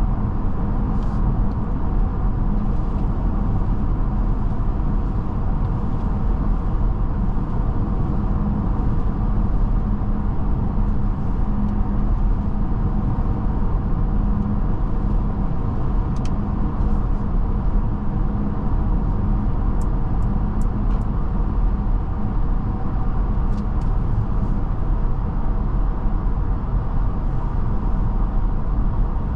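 Mercedes-Benz GLB350 driving steadily, heard from inside the cabin: an even road and tyre noise with a steady low hum. A few faint clicks come near the middle.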